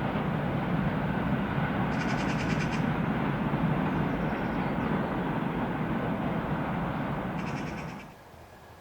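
Train passing close by: a steady rumble of wheels on the rails, with a brief high rapid rattle twice. The noise falls away sharply about eight seconds in.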